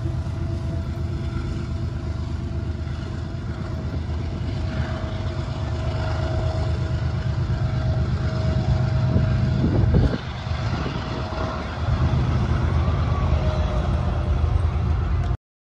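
Diesel freight train running, a steady low rumble with a faint steady tone over it; the sound cuts off abruptly near the end.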